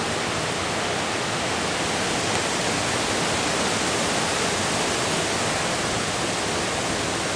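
Hurricane wind blowing outdoors in a steady, dense rush of noise.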